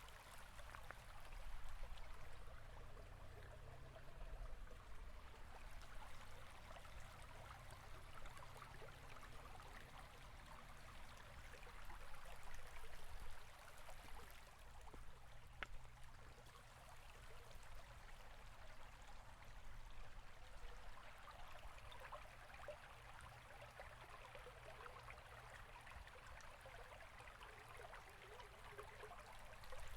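Faint, steady rush of a flowing river: running water with fine splashing and a low rumble underneath.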